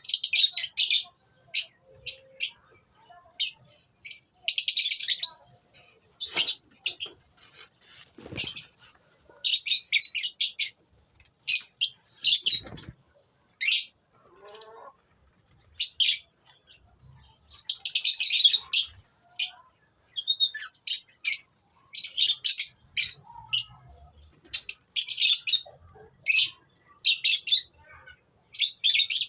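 Lovebirds in a colony chirping and chattering, in short shrill bursts every second or so.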